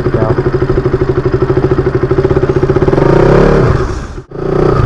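KTM RC 200's single-cylinder engine idling with a steady fast pulse, then revving as the bike pulls away about three seconds in. The sound cuts out for an instant near the end and comes back running.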